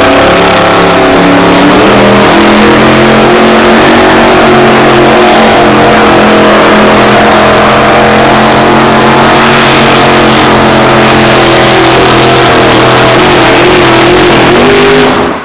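A pulling truck's 638-cubic-inch aluminum Ford Hemi running flat out under load, a steady, very loud engine note whose pitch holds with small steps. It cuts off suddenly near the end.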